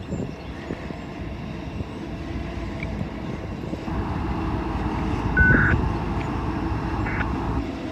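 Freight train of auto rack cars rolling slowly around a curve: a steady low rumble that grows louder about four seconds in, with a few short, high squeaks in the second half.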